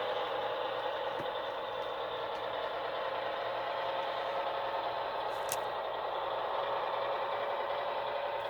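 HO scale model diesel locomotives running on the layout, a steady diesel engine sound with a sharp click about five and a half seconds in.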